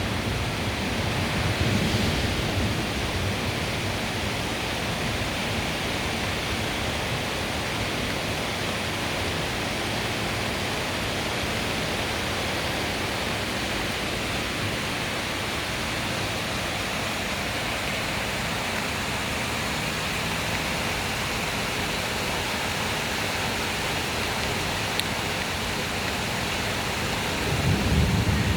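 Heavy rain pouring down in a steady hiss during a thunderstorm. A low rumble of thunder dies away about two seconds in, and another rumble rises near the end.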